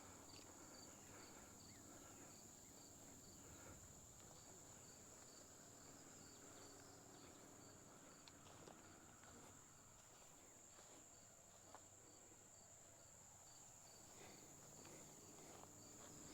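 Faint insects: a steady high buzz with a cricket chirping regularly, about two or three chirps a second, over quiet open-air background.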